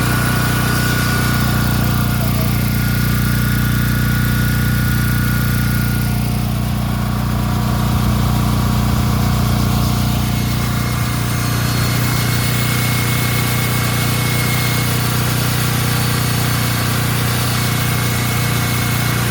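An engine running steadily at a constant speed, with a low, even hum and no change in pitch.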